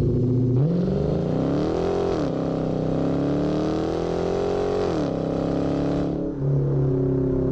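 Cammed Dodge Charger R/T's HEMI V8 with long-tube headers accelerating hard: the revs climb, drop sharply at a gear change about two seconds in, climb again, then fall away as the driver lifts off, settling to a steady lower note near the end.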